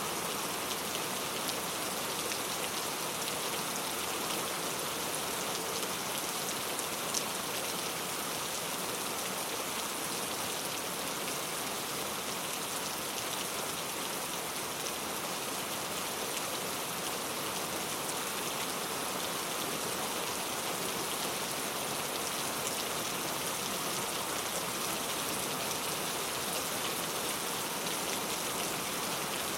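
Steady rain falling, with no thunder; one sharper tick about seven seconds in.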